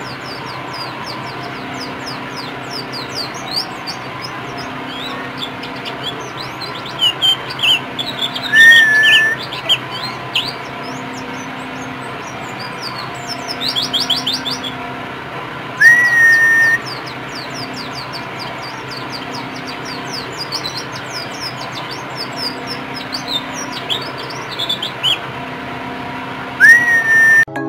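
White-eye (pleci) singing a fast, continuous high-pitched twittering song of quick sweeping notes. Three louder bursts come about seven to eleven seconds apart, each holding a short whistle that rises and then stays level. A faint steady hum runs underneath.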